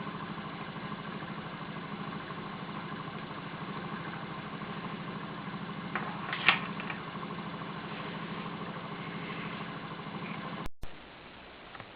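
Small model walking-beam Stirling engine running with a steady, rhythmic mechanical beat. A sharp click comes about six and a half seconds in, and near the end the sound cuts off abruptly and returns quieter.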